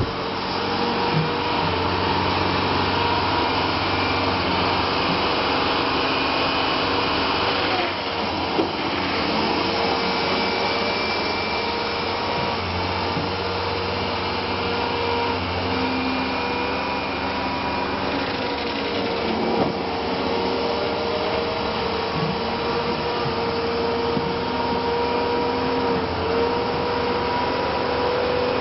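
A machine motor running steadily under load, a constant whine over a noisy roar, with a slight change in the sound about eight seconds in.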